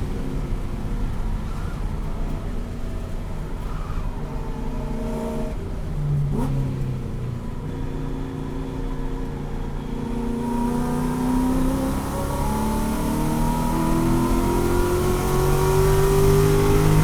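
Ford Mustang Boss 302 race car's 5.0-litre V8 at speed. The revs drop and break sharply about six seconds in, like a lift and gear change, then climb steadily through a long pull over the last seven seconds.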